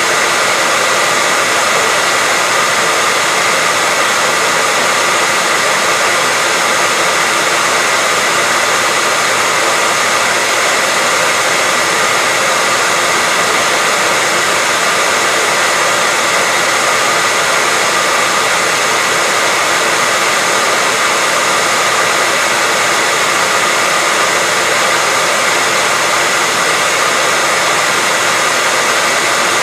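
Hairdryer running continuously: a steady loud rush of blown air with a faint motor whine near 2 kHz, unchanging throughout.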